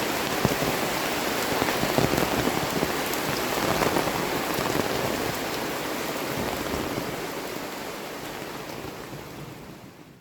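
Heavy tropical rain falling steadily, a dense hiss with the patter of individual drops, fading away over the last few seconds.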